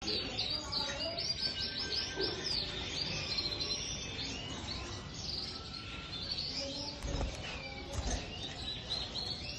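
Domestic canary singing a fast, continuous song of rapid trills and repeated chirps, with a couple of low thumps a little past the middle.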